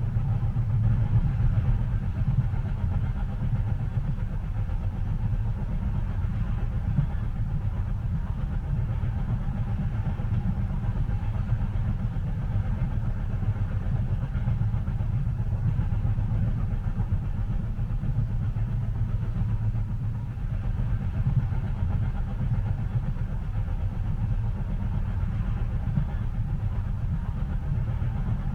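Steady low rumble of a moving train heard from inside the passenger cabin, even and unbroken.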